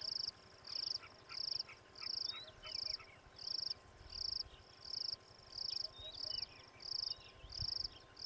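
A cricket chirping steadily: short, high, rapidly pulsed trills repeating about twice a second, with fainter high chirps from other insects or birds in the background.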